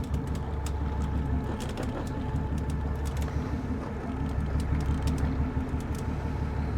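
Fishing boat's engine running steadily at low revs, a low even hum, with scattered light ticks over it.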